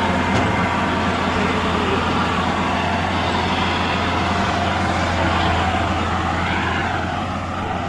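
Combine harvester engine running steadily, a continuous machine hum.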